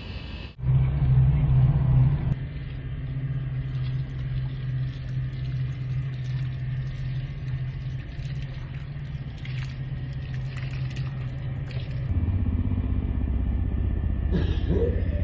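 Car engine running with a steady low hum. About twelve seconds in, the sound shifts to a deeper, louder rumble.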